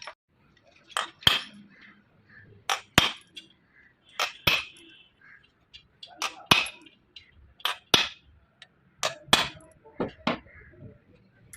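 Metal-on-metal hammer strikes, coming in pairs of sharp clinks about every second and a half.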